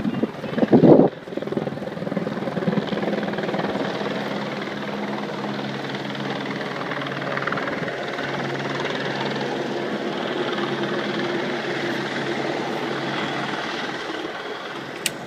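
Helicopter flying overhead, a steady drone of rotor and engine that eases a little near the end. A short, very loud burst comes about a second in.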